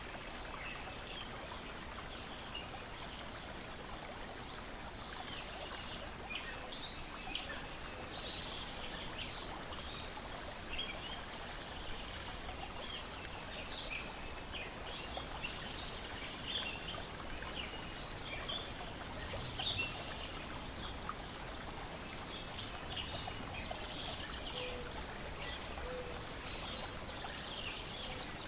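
Lake water lapping and splashing steadily, with small birds chirping and singing throughout.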